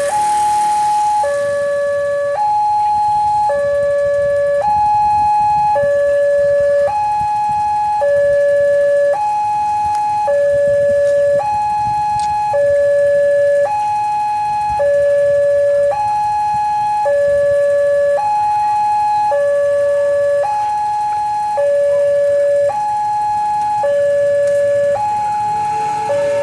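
Railway level-crossing warning alarm sounding an electronic two-tone signal, alternating high and low, each tone held about a second, warning of an approaching train.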